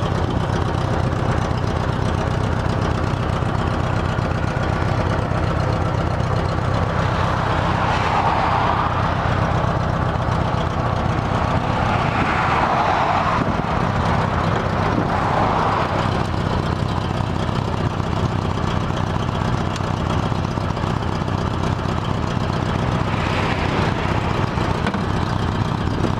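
1975 Honda Gold Wing GL1000's flat-four engine idling steadily, with a few brief louder swells of noise around the middle.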